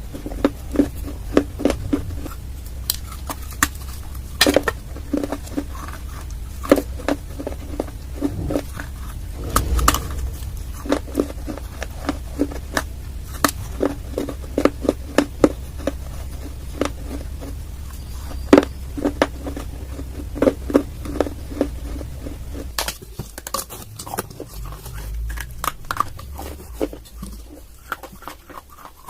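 Close-miked chewing and crunching of brittle baked clay: a rapid run of sharp, crisp cracks, several a second, growing sparser near the end.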